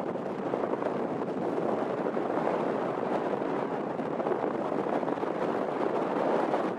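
Boeing 777-200ER's jet engines running, heard as a steady rumble.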